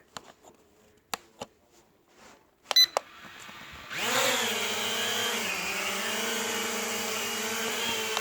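A few light handling clicks and a short click burst, then about four seconds in the small quadcopter's motors spin up with a rising whine and settle into a steady propeller buzz as the Propel Flex 2.0 toy drone takes off again.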